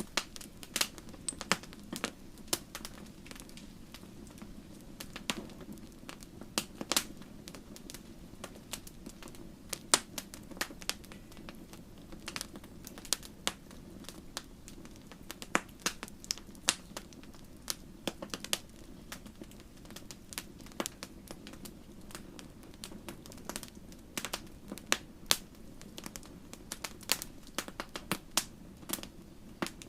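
Wood fire burning in a fireplace: a steady low roar of flame with frequent irregular sharp pops and crackles.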